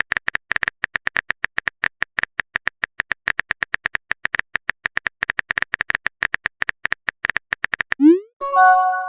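Phone keyboard typing sound effect: rapid, irregular clicks. Near the end a short rising swoosh, then a chime, like a message being sent or received.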